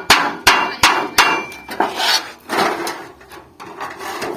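Hammer blows on sheet metal, about three a second for the first second or so, then a short rough rub and a pause. The metal is old refrigerator panel being beaten into a folded seam joint for a handmade pot.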